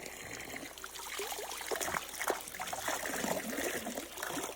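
Water trickling and bubbling, with many small rising plinks.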